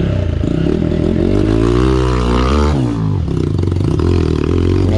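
Dirt bike engine running at idle, revved once about halfway through, its pitch rising and falling.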